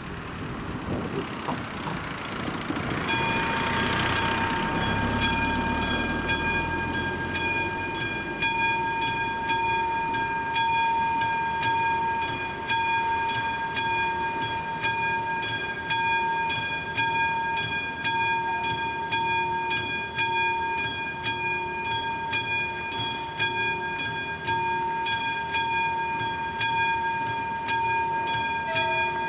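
Level crossing warning bell starting up about three seconds in and ringing on in regular strokes, about two a second, over a passing train's low rumble.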